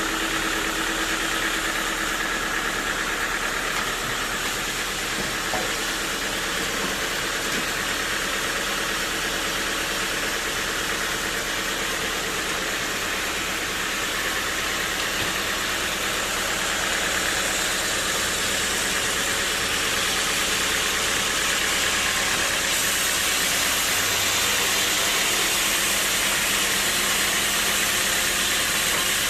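Sawmill machinery running steadily: a constant mechanical drone with a steady hum and hiss, growing a little louder about halfway through.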